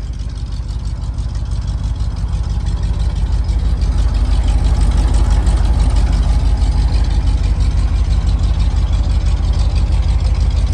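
1972 Chevrolet C60 truck's carbureted engine idling steadily, growing louder over the first few seconds and then holding even.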